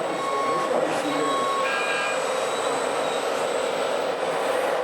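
Steady running noise of radio-controlled model vehicles, with short whining tones from their electric motors and gears over a continuous rumble.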